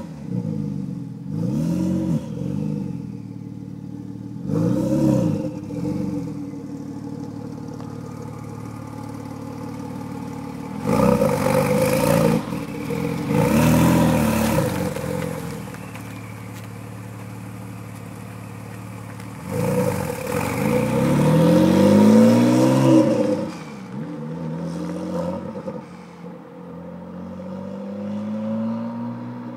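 Porsche 997 Turbo's twin-turbo flat-six through a Cargraphic aftermarket exhaust, idling and revved in short blips several times, each rev rising and falling back to idle; the longest run of revs comes about twenty seconds in.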